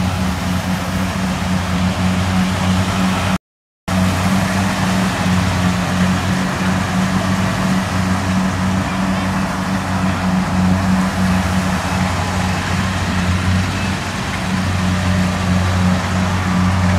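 Kubota DC70 combine harvester's diesel engine running steadily under load while harvesting rice. The sound cuts out completely for about half a second roughly three and a half seconds in, then resumes unchanged.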